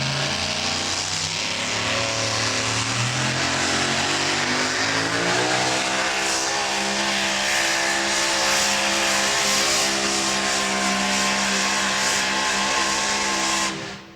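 Engine of a super modified four-wheel-drive pulling truck at full throttle down the track. Its pitch climbs in steps, rises a few seconds in, then holds high and steady until it cuts off abruptly near the end.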